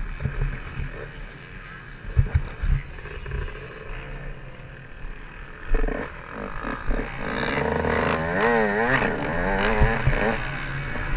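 Yamaha YZ125's 125 cc two-stroke single-cylinder engine running, its pitch swinging up and down several times from about seven and a half seconds in as the throttle is worked. There are a few sharp knocks around two seconds in.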